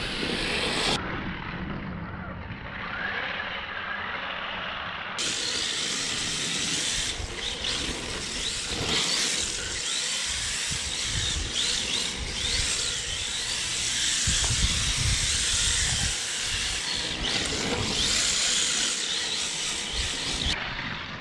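A 1/10 electric RC drift car's brushed motor whining up and down in short bursts as it is driven, over a steady hiss.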